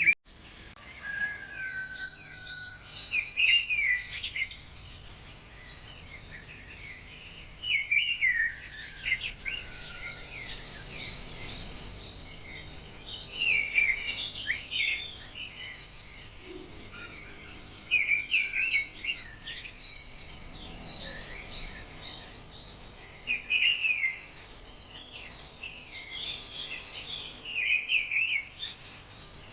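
Songbirds chirping and twittering in short bursts of song every few seconds over a faint steady background hiss.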